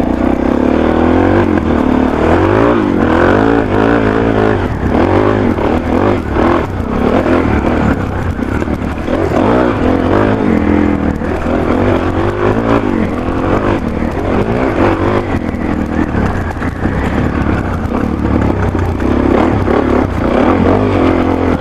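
Off-road motorcycle engine running through a Yoshimura RS-3 exhaust, revving up and down repeatedly as the bike is ridden.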